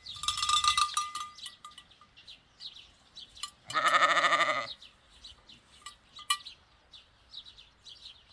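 A sheep bleats once, a wavering call of about a second near the middle. A sheep bell clanks loudly in the first second and clinks now and then after. Small birds chirp throughout.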